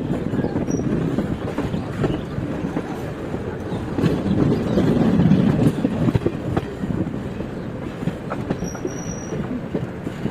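Train running on the rails: a steady rumble with rapid clattering clicks of the wheels over the track, swelling a few seconds in. A short high squeal sounds near the end.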